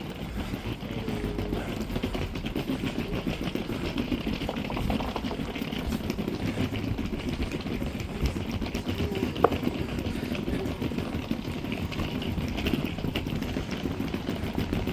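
Town street ambience with traffic noise, and one short sharp click about nine and a half seconds in.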